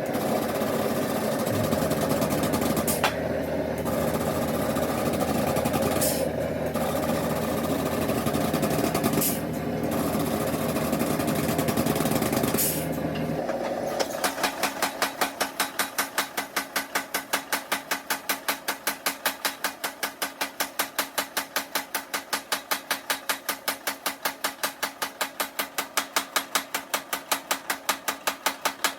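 A forge-shop machine running steadily, with short breaks every few seconds. Then, from about halfway, fast and even mechanical hammering at about five blows a second, as from a power hammer working a hot damascus billet.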